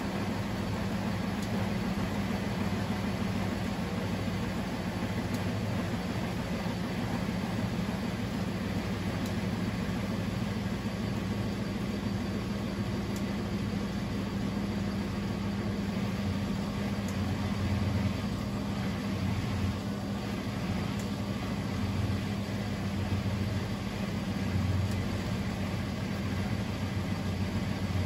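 Privileg 3001 S washing machine, Zanussi-built with a three-speed gear motor, running with a steady low motor hum and some uneven low rumble from the drum.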